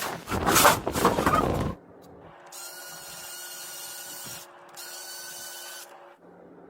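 A small motor runs loudly and roughly for under two seconds, then stops abruptly. Two quieter stretches of steady hiss with a faint whine follow.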